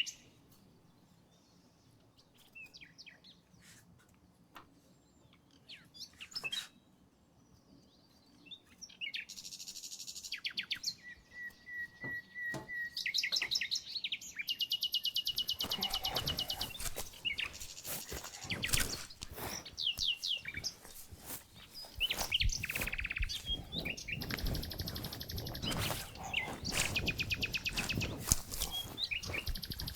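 Songbirds singing, with rapid repeated trilling notes: sparse at first, much busier from about a third of the way in. From about halfway, irregular knocks and clatter sound alongside the birdsong.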